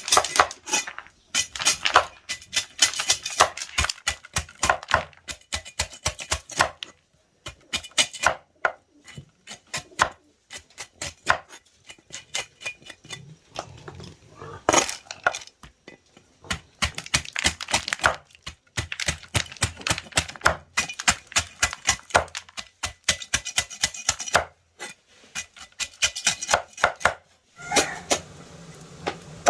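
Rapid runs of sharp clicks and knocks in bursts of a few seconds, with short pauses between.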